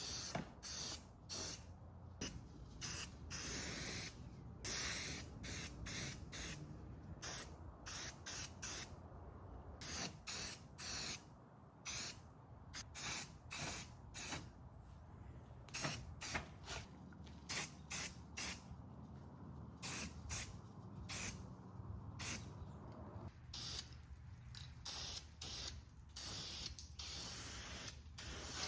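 Spray paint hissing out in many short bursts with brief pauses between them, as black primer is sprayed onto the cast-iron parts of a hand plane.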